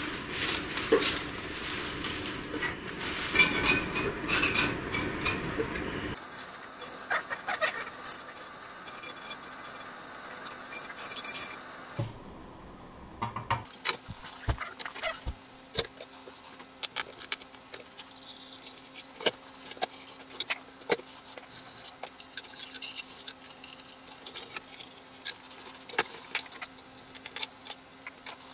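Bench-work handling of small metal machine parts and tools: clinks, taps and clicks. The sound is dense with noise and clicks for the first six seconds, then comes back after abrupt cuts as sparse, sharp clicks and clinks over a faint steady hum.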